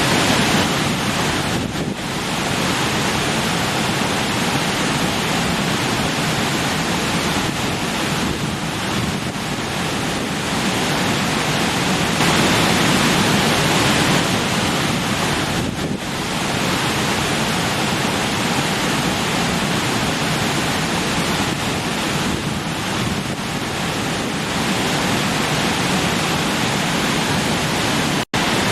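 Rushing stream water splashing over rocks, a loud steady rush with gentle swells, cutting out for an instant near the end.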